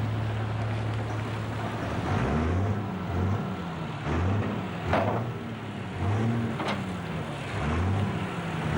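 Super stock pulling tractor's diesel engine running at a steady speed, then revved up again and again, about once a second. Two sharp cracks come about five and seven seconds in.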